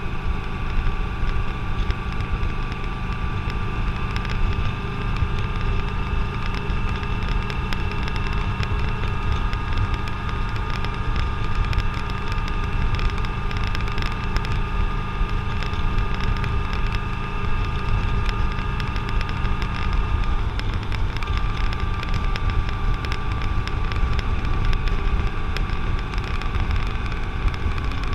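Motorcycle on the move at a steady speed: a steady engine drone under heavy wind rumble on the camera's microphone, with a brief dip in the engine tone about twenty seconds in.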